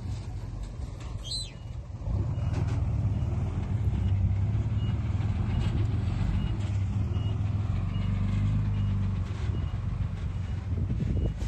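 Diesel engine of heavy earthmoving equipment working under load, rising in level about two seconds in and then running steadily, with a faint short beep repeating about twice a second in the second half.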